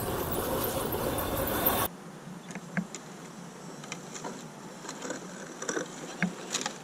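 An RC scale crawler's motor and drivetrain running with a steady noisy whir, cut off abruptly about two seconds in. After that it is much quieter, with scattered small clicks and a faint buzz.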